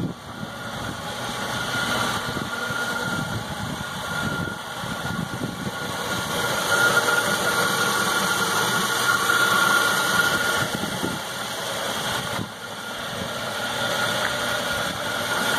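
1950 Cadillac Series 62's 331 cubic-inch overhead-valve V8 idling steadily, louder for a few seconds in the middle.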